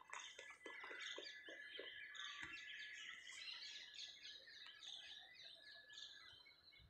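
Faint chorus of birds chirping, many short overlapping calls. A run of lower, evenly spaced notes, about four a second, goes on through the first two seconds.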